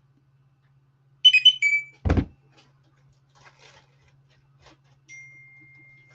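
Electronic notification chime: a quick run of high pitched notes about a second in, then a dull thud. A steady high electronic tone starts about five seconds in.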